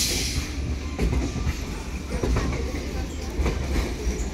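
Electric suburban local train (EMU) running slowly through a station yard: a steady low rumble of the coach with irregular clacks and knocks as the wheels pass over rail joints and points. A brief hiss sounds at the very start.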